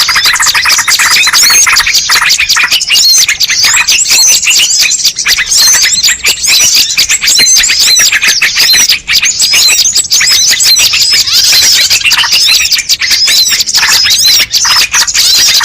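A loud, dense chorus of many small birds chirping and twittering rapidly in overlapping high, quick notes: a bird-lure call recording of the kind played to draw wild birds in.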